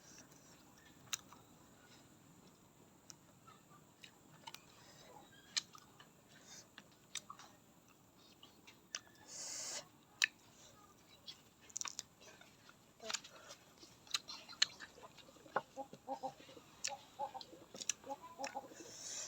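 Crisp crunching and chewing of raw vegetables, heard as scattered sharp clicks. A run of short pitched chirps comes near the end.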